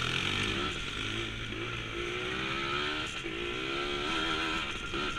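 Small 100cc dirt bike engine running under way, its pitch rising and falling as the throttle is worked.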